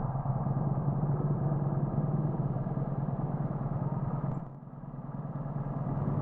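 Motorcycle engine running steadily with road and wind noise. It dips sharply a little past halfway, then builds back up.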